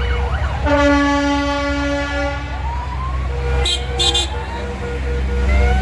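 Tractor engines running with a steady low rumble, and one long horn blast lasting under two seconds about a second in. Two short hisses follow midway.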